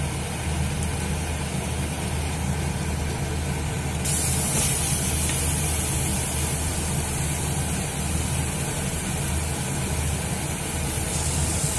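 Onion-tomato masala frying and sizzling in a kadai, a steady hiss, over a constant low hum from the kitchen.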